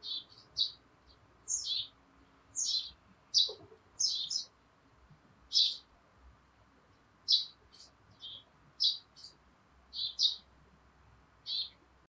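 Small bird chirping: short, high chirps, some sliding down in pitch, coming singly or in quick pairs at irregular intervals over a faint low hum.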